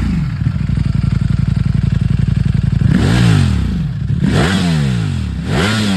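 Ducati Streetfighter V4's V4 engine idling steadily through its exhaust, then blipped three times about a second and a half apart, each rev rising and falling back to idle.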